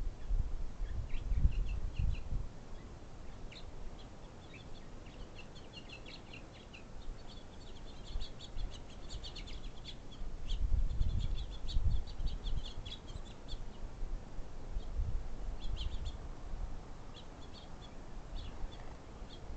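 Backyard songbirds chirping and twittering in quick runs of high notes, busiest in the middle. There are a few bursts of low rumble near the start and again in the middle.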